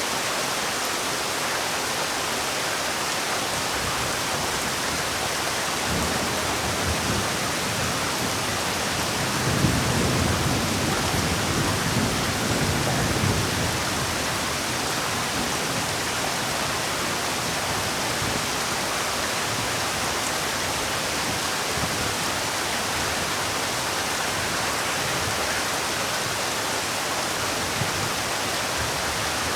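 Steady heavy rain making a dense, even hiss. About ten seconds in a low rumble swells under it for a few seconds, then fades.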